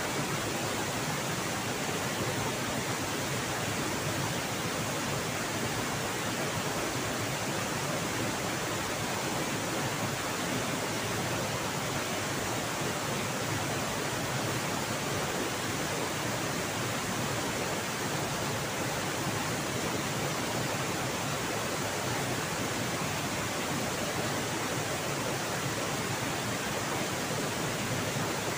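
Steady rush of fast-flowing river water at a waterfall, an even, unbroken roar.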